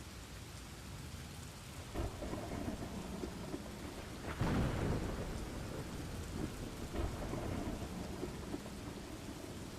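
Steady rain with rolling thunder: low rumbles swell a few times, the loudest about halfway through.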